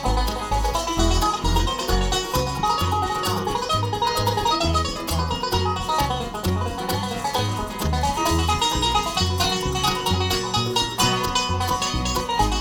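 Live bluegrass band playing a fast instrumental, with rapid picked banjo leading over guitar and bass notes that fall on a steady beat about twice a second.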